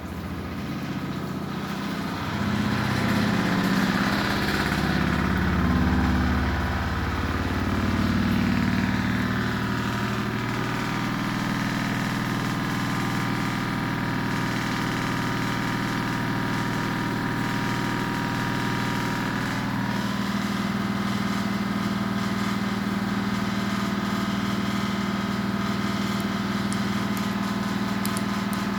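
Washing machine running: its motor and drum make a hum that shifts and swells for the first ten seconds or so, then settles into a steady, even hum.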